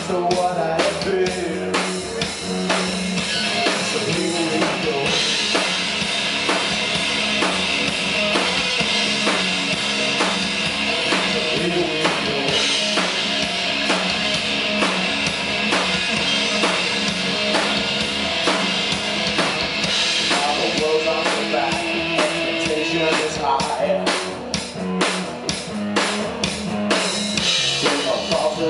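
Rock band playing live, an instrumental passage without vocals carried by a steady drum-kit beat of bass drum and snare under a dense wash of band sound.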